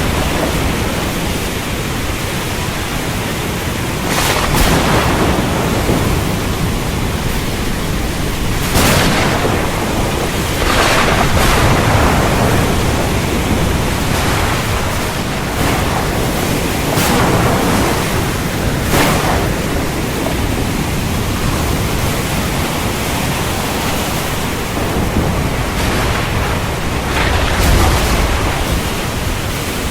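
Heavy rainstorm: a steady downpour with brief louder surges every few seconds, and a low rumble of thunder near the end.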